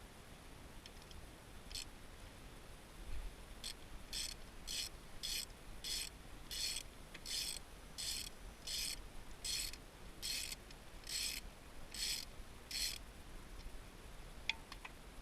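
A ratchet wrench being swung back and forth, a rasping run of ratchet clicks on each return stroke, about fourteen strokes at a steady pace of about one and a half a second. A couple of sharp clicks follow near the end.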